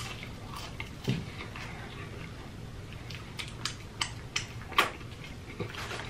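Close-miked eating: a mouthful of French fries being chewed, with a scatter of short wet mouth clicks and lip smacks, the loudest a little under five seconds in.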